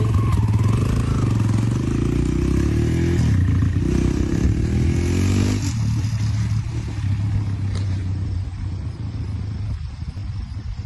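Dirt bike engine running with a low, steady note. About five and a half seconds in its higher tones drop away and it grows gradually quieter, as it rides off.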